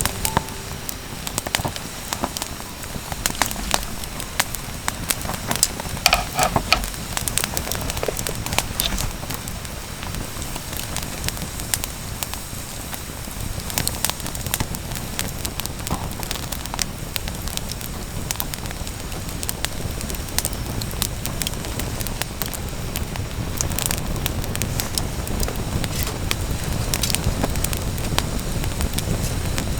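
Wood campfire crackling, with scattered sharp pops and snaps over a steady low hiss.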